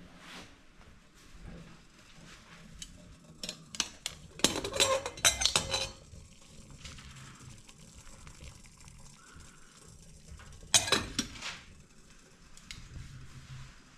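Metal cookware and utensils clinking and clattering in two bursts: a run of clinks about four seconds in lasting a couple of seconds, and a shorter one about eleven seconds in.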